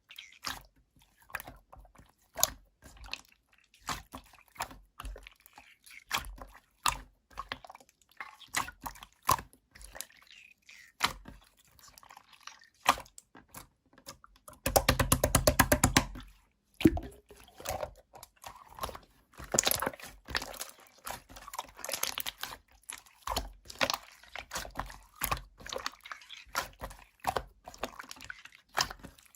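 Slime being squeezed and pressed by hand, making irregular wet clicks and pops. About halfway through there is a second and a half of rapid, even clicking.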